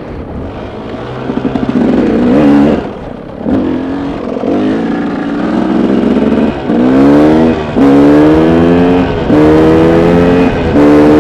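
KTM dirt bike engine under throttle: uneven revving at first, then from about the middle it pulls up in pitch four times in a row, dropping back briefly between runs as the rider shifts up through the gears.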